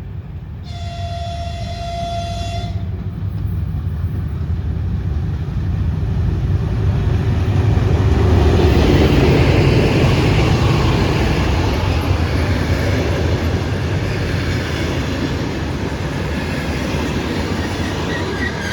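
2TE10UT twin-section diesel locomotive sounding its horn once for about two seconds, then running past with its passenger train. The engine and rolling rumble build to their loudest about nine seconds in and ease slightly as the carriages roll by.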